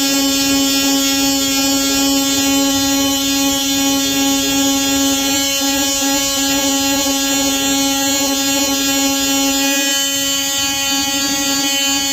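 DeWalt 20V Atomic cordless oscillating multi-tool with a sanding pad running steadily under load against wood, a constant high hum with little change in pitch.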